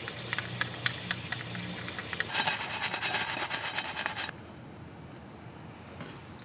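A rasping, scraping sound with scattered sharp clicks, growing denser about two seconds in and stopping abruptly about four seconds in.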